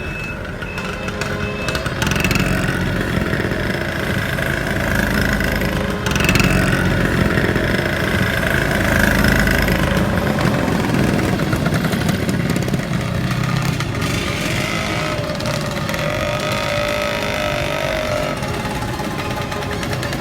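Motorbike engines running, getting louder about two seconds in and again around six seconds, with the engine pitch rising and falling later on.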